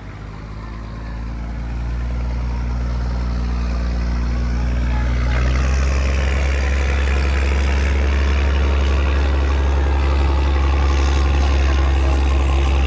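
A vehicle engine held at high revs during a burnout. It builds up over the first couple of seconds and then stays loud and steady, with a harsher rushing noise joining about six seconds in.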